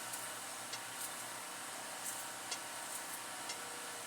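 Knife cutting carrots on a cutting board: light, irregular taps about every half second to a second over a steady background hiss.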